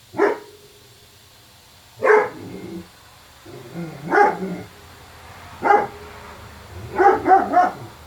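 A dog barking repeatedly: single barks about every two seconds, then a quick run of three near the end. This is the persistent nuisance barking being documented.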